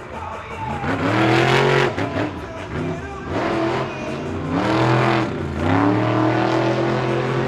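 Monster truck engine revving hard. The pitch climbs, drops back, climbs again with a brief dip, then is held high at full throttle.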